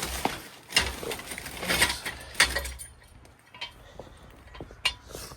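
Metal clinks and rattling scrapes from handling and adjusting a steel jack stand, with several sharp clicks among the scrapes.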